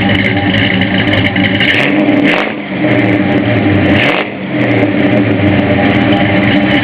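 The 1965 Ford F100 pickup's 5.0 Cobra V8 (bored .040 over, B303 cam) is running at idle through its 2.5-inch H-pipe exhaust. The throttle is blipped briefly twice, about two seconds in and again about four seconds in, each time swinging the pitch before it settles back to idle.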